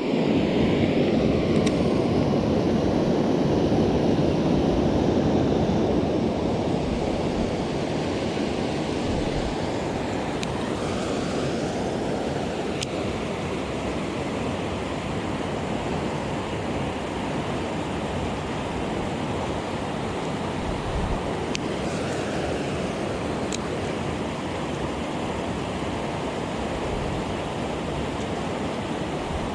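Stream water rushing steadily, a little louder for the first few seconds.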